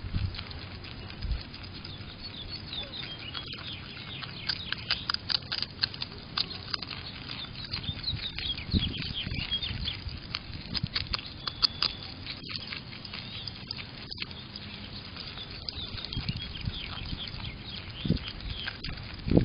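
Beaver chewing, a long irregular run of quick crunching clicks and crackles with an occasional low thump.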